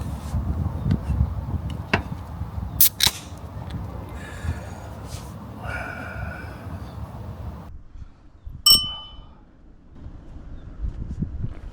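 Objects being handled: a few sharp clicks and knocks over a low wind rumble, then a single metallic clink that rings briefly about nine seconds in.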